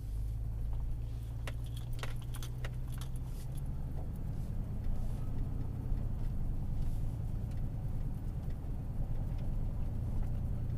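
Chevy truck V8 with short-tube headers and a 3-inch cat-back exhaust through a Summit Racing muffler, heard from inside the cab as a low, steady rumble that rises a little about four seconds in. A few sharp clicks and jingles sound in the first three seconds.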